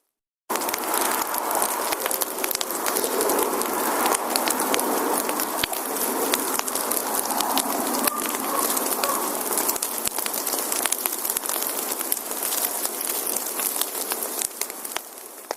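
Wood fire burning, a steady crackle full of small snaps and pops. It starts suddenly after a brief silence and fades out near the end.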